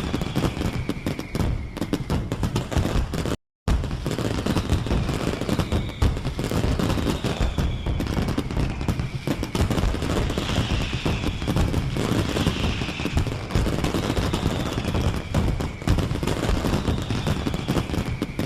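Continuous rapid crackling and popping, with faint falling whistles every couple of seconds. The sound cuts out completely for a moment about three and a half seconds in.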